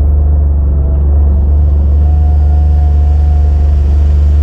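Four-wheel-drive vehicle driving on a snowy road, heard from inside the cab: a steady low engine and road rumble, with a faint steady whine from about two seconds in.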